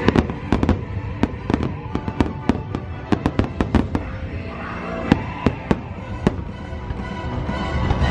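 Fireworks going off in a rapid run of sharp bangs over the show's music soundtrack, with the bangs thinning out after about six seconds.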